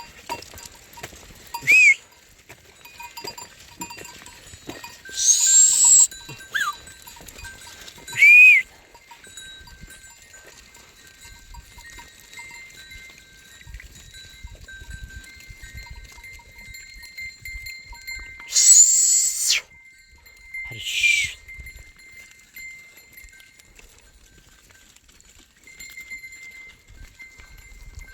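A flock of sheep out grazing, their bells ringing faintly and steadily, broken five times by short, loud, shrill sounds.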